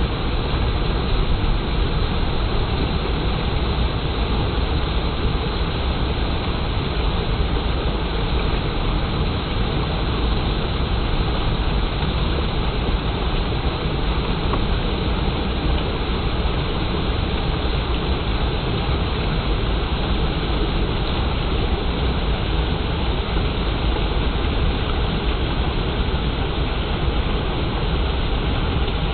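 Clear water flowing and splashing steadily: a continuous, even rush of running water.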